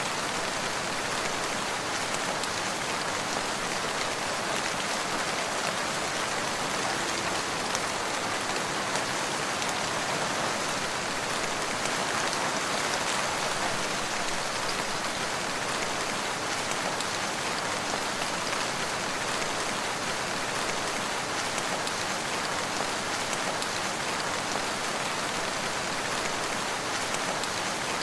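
Steady rain falling on surfaces, a dense even hiss with scattered individual drop taps.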